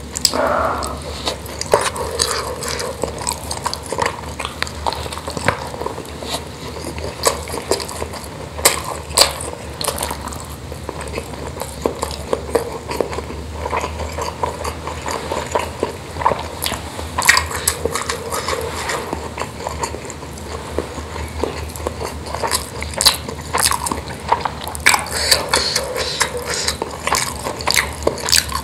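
Close-miked chewing and wet, sticky mouth sounds of a person eating spicy bakso meatballs in chili sauce with rice, with many small smacks and clicks.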